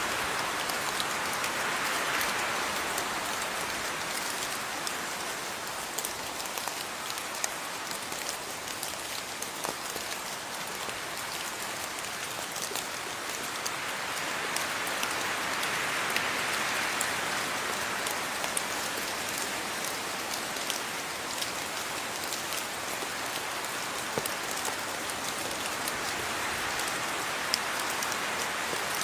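Steady rain falling, a dense hiss with many separate drop ticks, swelling and easing gently about every fourteen seconds.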